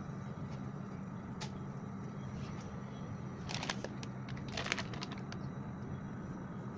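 Light clicking and clatter in two short clusters about halfway through, over a steady low hum.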